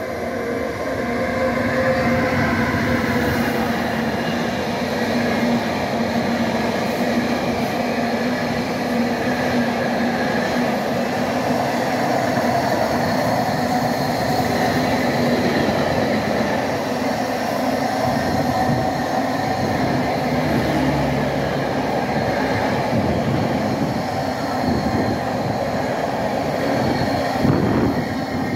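Long intermodal container freight train passing through a station: a steady rumble and rattle of wagons and wheels on the rails, with a low hum in the first half.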